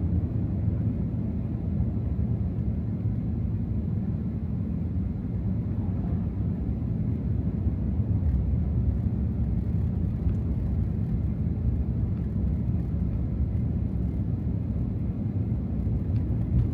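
Steady low rumble of a 2024 Ram TRX pickup cruising through snow, heard inside the cab: its supercharged 6.2-litre V8 and tyres on the snowy road, with no revving.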